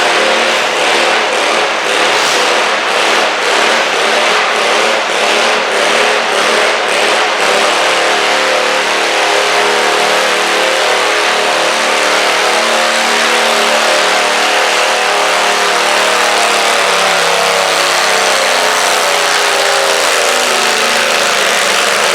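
Stock garden tractor engine running hard at high revs, its pitch wavering slightly, typical of a tractor pulling a weight sled.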